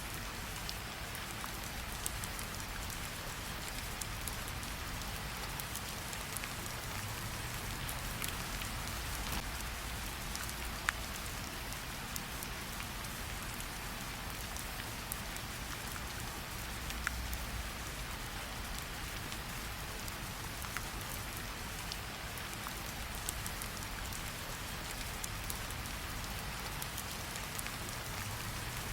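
Steady rain falling, with scattered sharp crackles and pops from a campfire mixed in.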